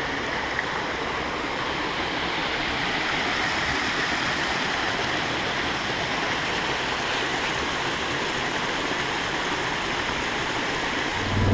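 Small waterfall and its stream rushing steadily. Near the end an ATV engine starts running with a low steady hum.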